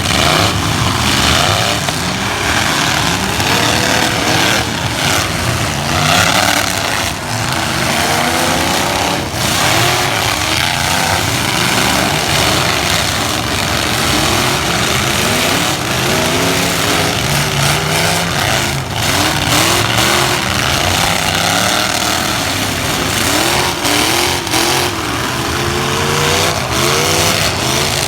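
Several light trucks' engines revving hard and dropping back over and over, overlapping, as the trucks drive at one another in a demolition derby.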